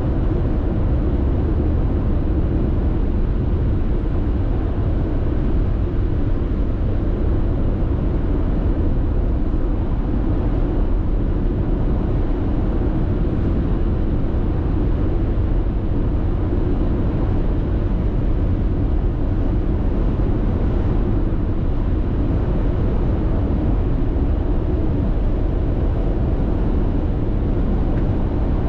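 Steady road noise inside a car cabin cruising at constant expressway speed: a deep, even rumble of tyres and engine with no distinct events.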